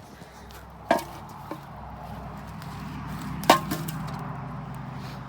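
Ice on a frozen puddle being struck to break it up: two sharp knocks, about a second in and a louder one a little past halfway, with a lighter knock between them.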